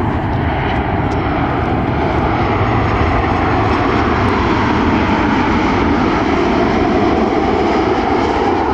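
Jet airliner's engines, a loud, steady noise that swells slightly through the middle and eases a little near the end.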